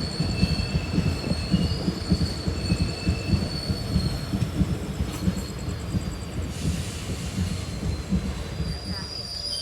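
A passenger train rolling on the rails: a dense low rumble of wheels and carriages, with thin, high wheel squeals coming and going over it.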